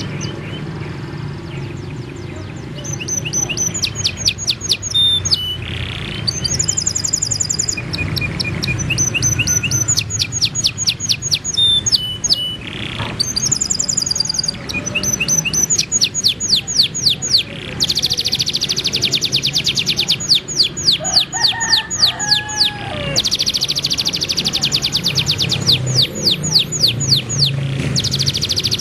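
Songbirds singing, a mix of canary, white-rumped shama and kapas tembak: fast runs of repeated high sweeping notes and rapid trills, broken by short pauses, over a low steady hum.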